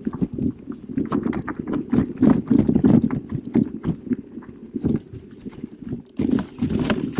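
Specialized Turbo Kenevo SL e-mountain bike ridden over a rough forest trail: a rapid, irregular clatter of rattles and knocks from the bike over a steady low rumble.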